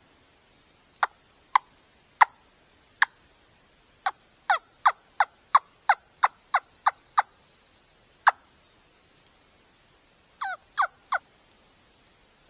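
Turkey yelping: a series of short, sharp notes, a few spaced ones, then a run of about three a second, and a quick group of three near the end.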